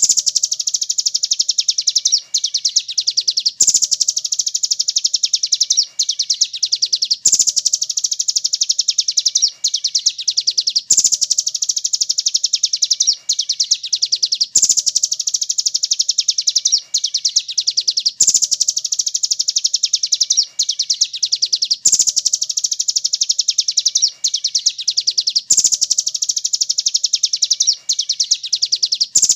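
Bird-song masteran recording of a very fast, high-pitched trill, a dense run of sharp chips. The phrase repeats in a loop with a short break about every three and a half seconds.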